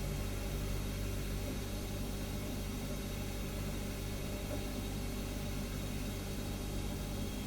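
Refrigerator humming steadily: a low, even compressor hum with a few steady low tones under a soft hiss, unchanging throughout.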